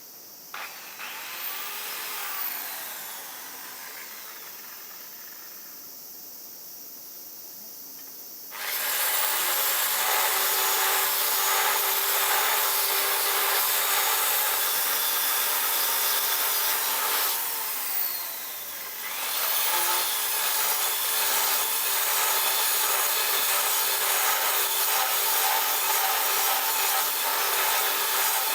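A power tool working material with a harsh, noisy rasp. It starts abruptly about a third of the way in, breaks off for a moment past the middle, then carries on.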